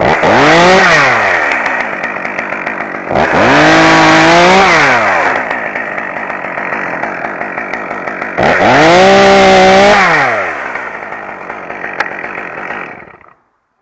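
Chainsaw engine revved up to high speed three times, each rise held for a second or two and falling back to idle in between, then shut off near the end.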